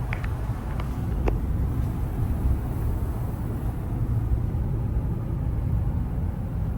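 Low, steady road and engine rumble of a truck being driven, heard from inside the cab. A few faint short clicks come in the first second and a half.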